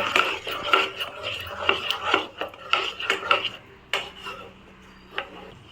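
Metal spoon scraping and clinking against a kadai while stirring the masala, in a quick series for about four seconds, then one more clink near the end.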